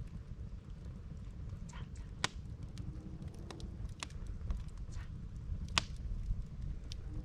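Campfire of split firewood burning, crackling with a few sharp pops over a low steady rumble.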